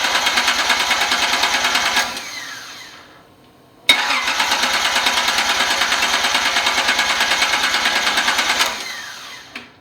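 Datsun 280ZX Turbo straight-six turned over on its starter motor in two long cranks, with an even chugging rhythm. Each crank ends with the starter whining down. The engine does not catch, which the owner suspects is a connection issue in the ECU wiring.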